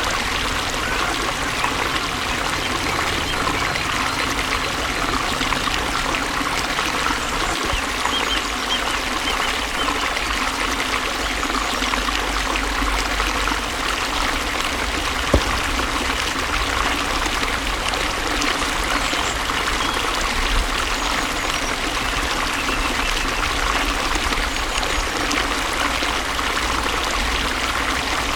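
Flowing water running steadily, a continuous trickling babble with a low rumble beneath it. A single sharp click about halfway through.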